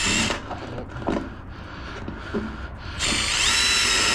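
Power drill spinning up about three seconds in and running steadily with a whine, used on metal roof panels, after a few light knocks.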